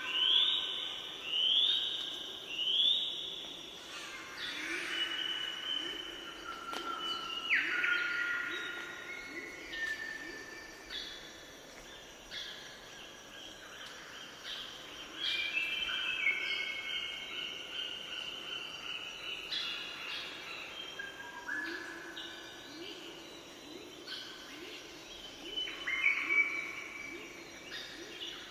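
Birds singing: many overlapping whistled notes and chirps, with a run of quick rising whistles about once a second at the start.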